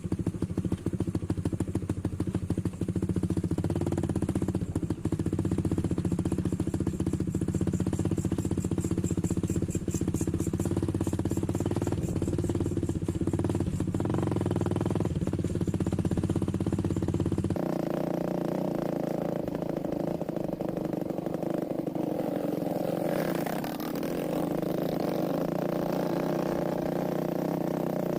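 Motorcycle engine running steadily while riding. About two thirds of the way in, the sound changes abruptly: the low engine drone drops away and a higher-pitched steady drone takes over.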